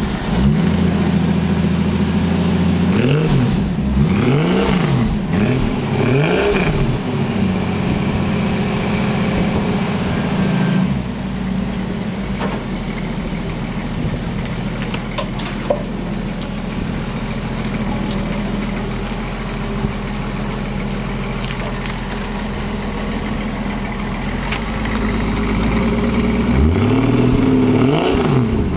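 1966 Ford Mustang straight-six running through a 6-into-1 header and stainless exhaust with twin tailpipes. A few throttle blips rise and fall in the first several seconds, then it settles into a steady idle, and it is blipped again near the end.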